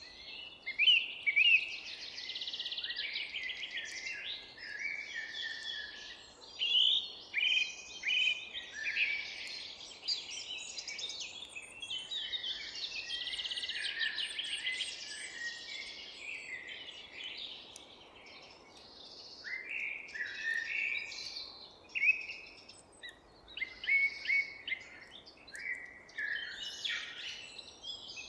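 Several songbirds singing and chirping at once in a forest, a dense chorus of overlapping short chirps, trills and whistled phrases, with a faint steady hiss of background noise underneath.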